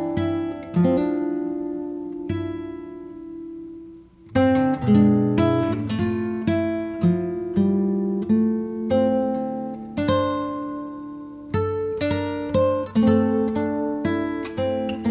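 Background music of plucked acoustic guitar, notes and chords ringing out and fading, with a brief pause about four seconds in.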